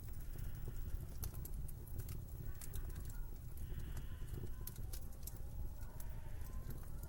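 Wood fire crackling in a fireplace, with irregular sharp pops and snaps, over a steady low rumble of wind.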